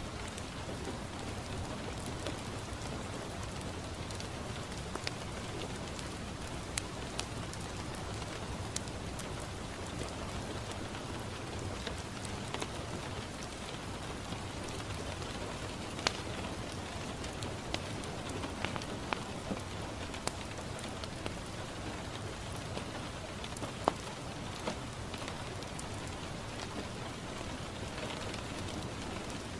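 Steady rain falling on a window pane, mixed with a fireplace crackling: irregular sharp pops stand out over the even patter, two of them louder than the rest.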